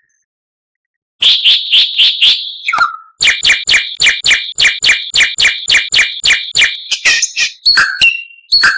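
White-rumped shama (murai batu) singing: after about a second of silence, a fast run of sharp repeated chips, about three to four a second, then slower two-note whistled phrases near the end.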